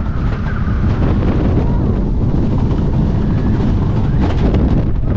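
Loud wind rushing over the microphone over the rumble of a wooden roller coaster train running along the track, heard from a rider's seat.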